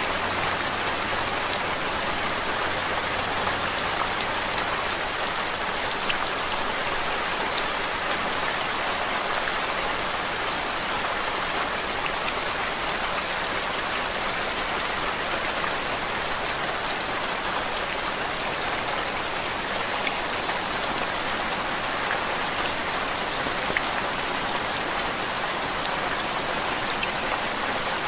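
Steady rain falling: a dense, even hiss of rain with scattered sharper drop ticks, unchanging throughout.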